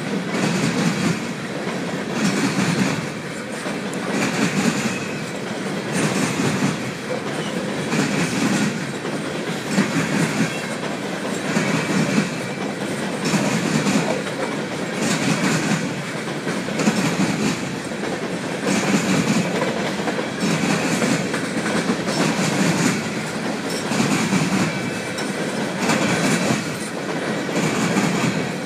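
Empty open-top coal hopper cars of a freight train rolling past, their wheels clicking over the rail joints in a steady repeating rhythm.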